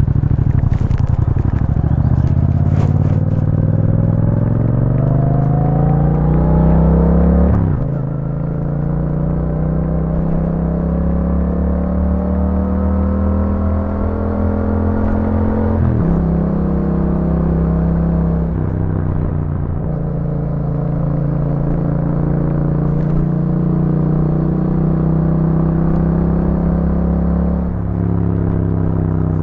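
Yamaha MT-07's parallel-twin engine through an Akrapovič exhaust, riding under load: the pitch climbs as it accelerates, drops sharply at an upshift about seven seconds in, climbs again to another shift around sixteen seconds in, then runs at a steadier engine speed with a few smaller changes.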